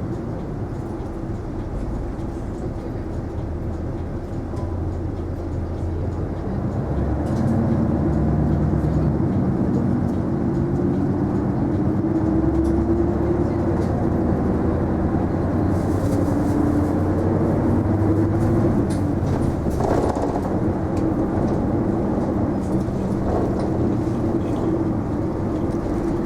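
Isuzu Erga non-step city bus heard from inside the cabin while under way: a steady engine and drivetrain drone whose pitch rises and falls through the middle as the bus gathers speed. There is a single sharp knock about 20 seconds in.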